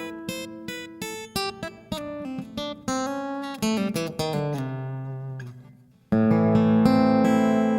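Gibson G-Bird acoustic guitar played plugged in: a quick run of picked single notes that fades away, then a strummed chord about six seconds in, left ringing.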